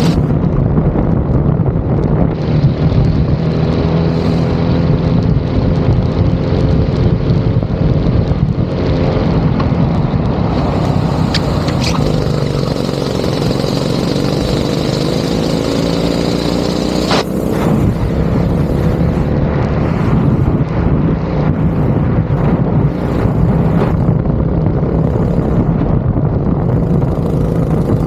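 Go-kart engine running hard on track, its pitch rising and falling as the kart accelerates and slows through the corners. There is one short sharp click about two-thirds of the way through.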